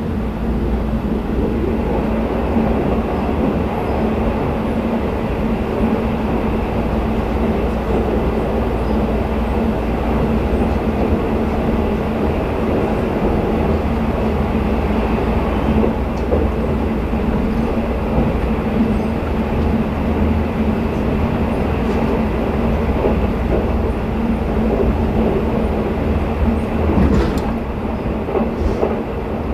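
Steady running noise of a sleeper express train at speed heard from inside a passenger car: an even rumble of wheels on the rails with a steady low hum, and a few brief clicks near the end.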